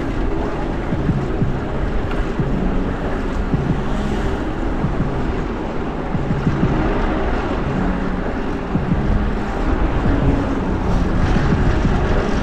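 Wind rushing over an action camera's microphone while riding a fixed-gear bike at speed, with the engine hum of passing traffic underneath.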